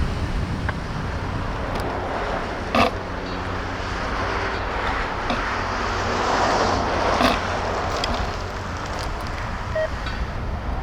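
Road traffic passing by, with a swell about two thirds of the way through as a car goes past, and a couple of short knocks.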